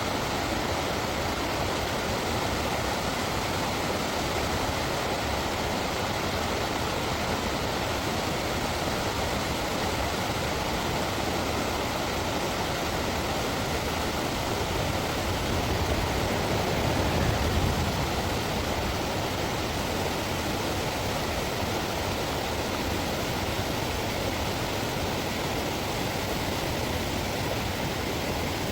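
Steady rush of river water running over rapids or falls, an even hiss with no break, briefly swelling with a low rumble a little past the middle.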